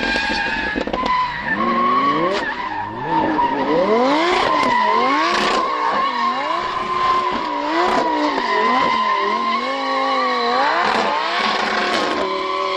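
Drift car's engine revving up and down again and again as the car slides, with a steady tyre squeal running underneath.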